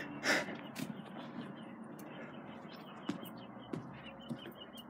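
Small birds chirping in rapid short high notes, starting about halfway through, over faint background hiss. A brief hissing burst comes just after the start, and a few soft knocks follow later.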